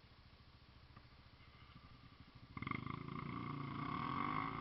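Off-road vehicle engine running at a low idle, then revving up about two and a half seconds in and holding the higher revs, its pitch wavering.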